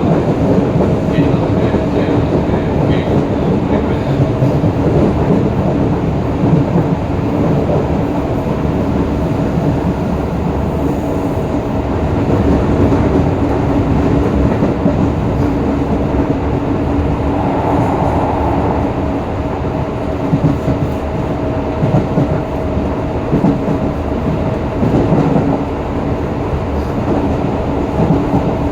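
Onboard running sound of Hokuso 7300-series car 7301, a GTO-VVVF inverter train: steady wheel-on-rail rumble with clickety-clack from rail joints, and a motor hum held at one steady pitch.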